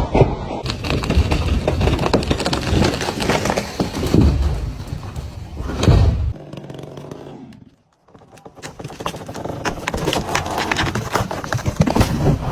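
Wood cracking and snapping, with heavy thuds about four and six seconds in. After a short break in the middle, more crackling follows.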